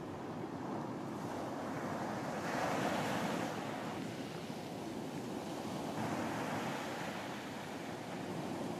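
Ocean waves washing onto a beach, swelling and receding in slow surges, two of them within these seconds, with a steady wash of surf beneath.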